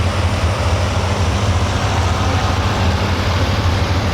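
A pulling truck's engine runs steadily as one low, even drone, with no revving up or down.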